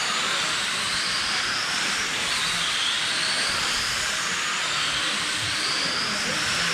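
Several electric RC race cars running laps on a dirt oval: the high whine of their brushless motors rises and falls as cars pass, over a steady hiss.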